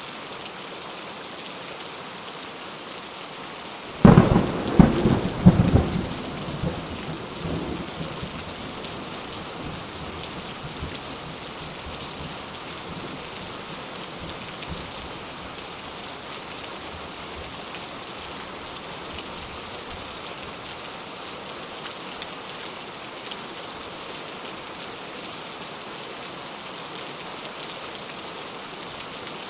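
Steady rain falling, with a clap of thunder about four seconds in: several sharp cracks, then a rumble that fades over the next few seconds.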